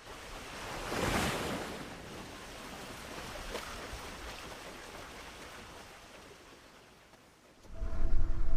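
Ocean surf: a wave breaks about a second in and washes out, fading slowly over several seconds. Music starts near the end.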